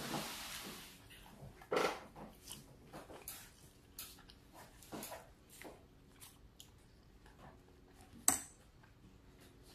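Close-miked eating sounds of a bacon cheeseburger being chewed: scattered wet mouth clicks and smacks, a breathy rush at the start, and one sharp click about eight seconds in as the burger is lifted to the mouth.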